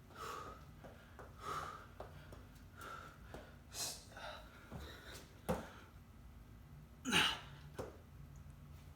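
A person breathing hard and gasping from exertion during bodyweight exercise, a short breath every second or so. A brief click about halfway through, and the loudest, most forceful breath about two seconds before the end.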